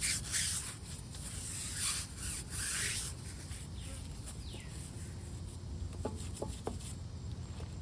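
A cloth rubbing across a car's painted body in several wiping strokes over the first three seconds, then quieter.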